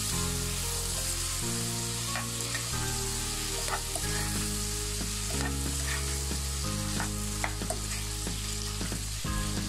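Yard-long beans sizzling in hot oil and spice paste in a pan while a spatula stirs them, scraping and tapping the pan now and then.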